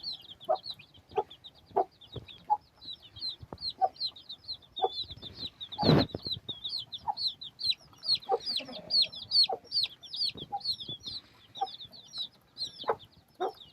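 Chickens clucking in short calls about every half second over a constant high-pitched peeping, with one loud thump about six seconds in.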